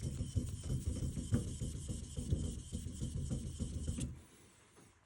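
A steel blade being rubbed back and forth on an Arashiyama natural Japanese sharpening stone (6000 grit), in quick, repeated scraping strokes that stop about four seconds in.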